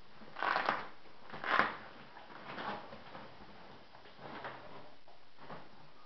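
Packing material rustling and crinkling as parts are lifted out of a shipping box, in five short bursts, the loudest two near the start.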